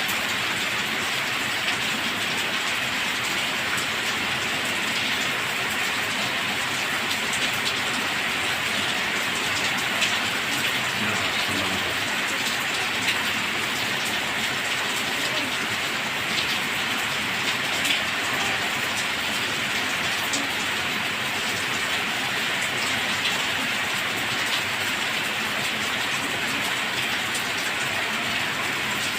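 Steady rain falling, an even hiss with faint scattered drops ticking through it.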